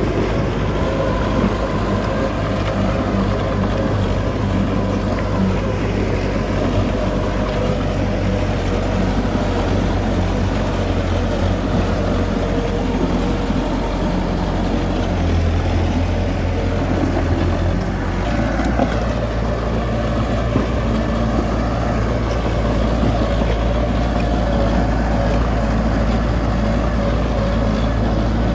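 Heavy diesel engine of earthmoving machinery running steadily. Its low drone shifts in pitch about eighteen seconds in.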